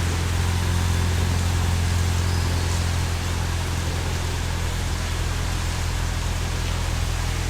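Ford Mustang EcoBoost's turbocharged 2.3-litre four-cylinder idling steadily through a new full stainless-steel Y-pipe exhaust with a custom downpipe, a deep even exhaust note.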